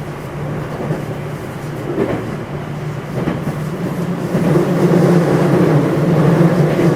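A JR West 227 series electric train's motor car running along the line, heard on board: a steady low running rumble of wheels on rail with a few clicks from rail joints. It grows louder about four and a half seconds in.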